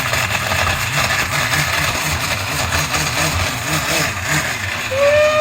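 Countertop blender running, its motor churning milk, ice cubes and chunks of chocolate muffin with a steady noisy whir and a low pulsing beat. Near the end a louder steady tone comes in over it.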